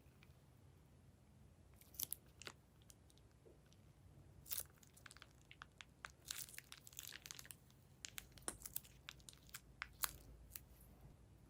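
Clear slime being handled, with scattered sharp clicks and crackles that come thickest in the middle and one loud pop near the end.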